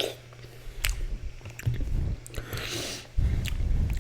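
Close-miked wet chewing of fruit in coconut water (Nature's cereal of berries and seeds), with scattered sharp mouth clicks and a hissing slurp about two and a half seconds in.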